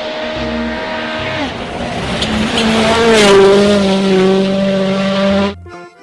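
Rally car engine running hard on a gravel road, with gravel and tyre noise beneath it. Its note drops about a second and a half in, is loudest about three seconds in, then holds steady and cuts off suddenly near the end.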